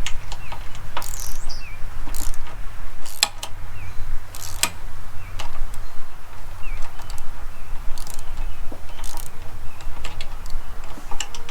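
Wrench or ratchet clicking in irregular strokes as a bolt is turned into a lock nut during assembly of a wood chipper, over a steady low rumble, with a few short bird chirps.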